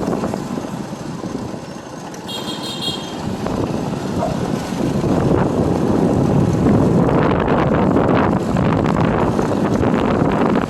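Riding on a motorbike: wind buffets the microphone over the engine and road noise, dipping in the first few seconds and swelling again from about halfway through. A brief faint high tone comes about two seconds in.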